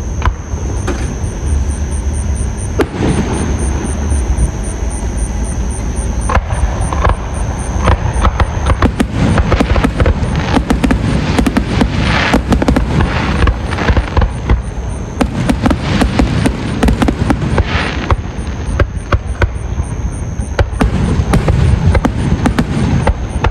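Fireworks display: shells bursting in a string of booming bangs over a steady low rumble, getting much denser from about eight seconds in, with rapid bangs and fizzing crackle packed close together.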